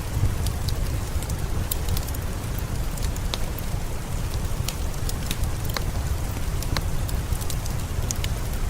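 Steady rain mixed with a crackling fireplace fire: a constant rushing hiss with a low rumble underneath, and many sharp pops and crackles scattered through it.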